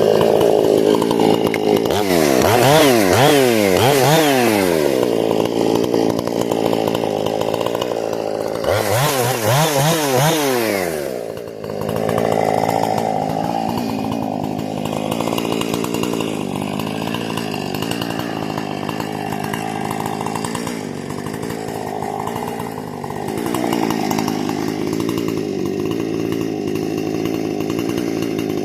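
Husqvarna 460 two-stroke chainsaw, with a modified carburettor and muffler, running through a break-in tank. There are two loud spells, a few seconds in and again about nine seconds in, where the engine pitch swings rapidly up and down. It then settles into steadier, lower running.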